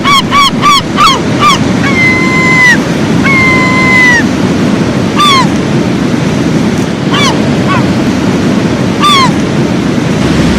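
Steady roar of breaking surf with water birds calling over it: a fast run of calls at the start, two longer level calls, then several short calls falling in pitch.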